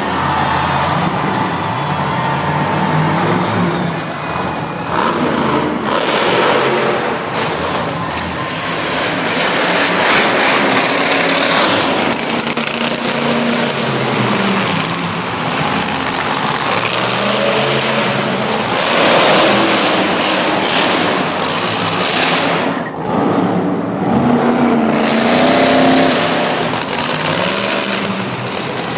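Monster truck's supercharged V8 engine revving up and down repeatedly, over a continuous loud wash of noise.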